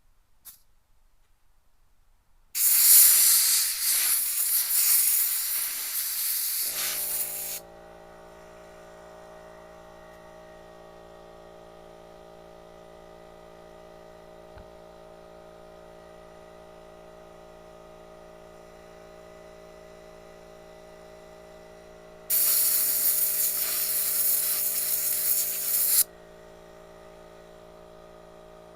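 Two blasts of compressed air from a blowgun nozzle, each about four to five seconds long, blowing soapy water off a tire bead. From about seven seconds in, a steady electric air compressor motor hums underneath.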